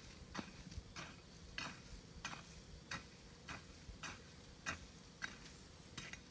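Light knocks or taps repeating in a steady rhythm, about three every two seconds.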